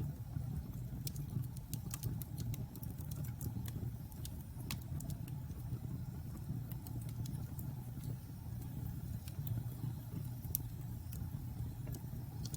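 Wood fire with logs burning in a fireplace: irregular sharp crackles and pops, some snapping louder than others, over a steady low rumble of the flames.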